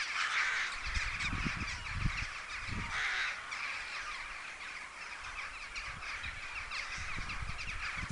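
Many birds calling at once, a dense chorus of crow-like cawing that does not let up, with a few low thumps in the first three seconds.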